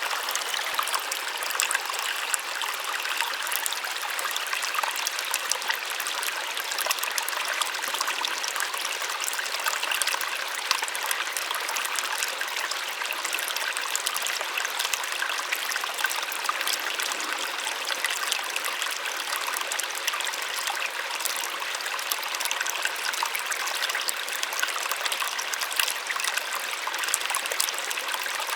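Small waterfall splashing steadily, an even rush of falling water without much low rumble.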